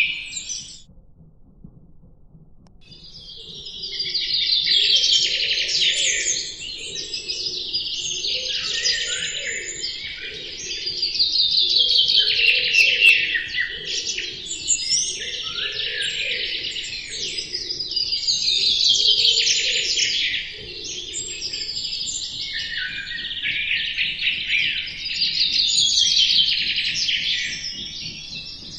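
A dense chorus of many small birds chirping and twittering. It drops to a brief lull about a second in, then swells and fades in waves every several seconds.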